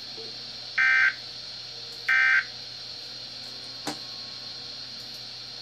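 Two short electronic alert beeps, about a second apart, from a weather radio broadcast, over steady radio hiss, with one sharp click later on.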